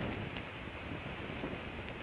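Wind rushing over an outdoor nest-camera microphone, a steady noisy rush with no distinct events.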